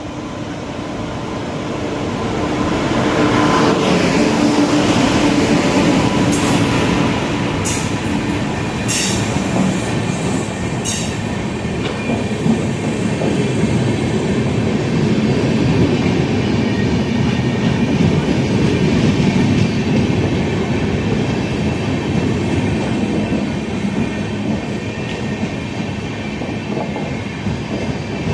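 Express passenger train arriving, its coaches rolling past loudly with clickety-clack over the rail joints. The sound builds over the first few seconds, and a few short high wheel squeals come between about six and eleven seconds in.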